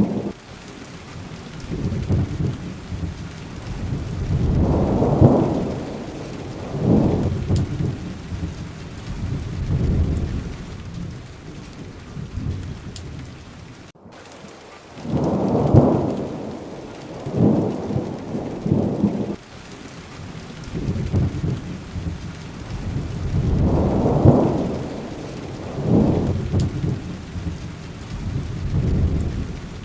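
Rain falling steadily in a thunderstorm, with rumbles of thunder that swell and fade again and again, every couple of seconds. There is a split-second dropout about halfway through.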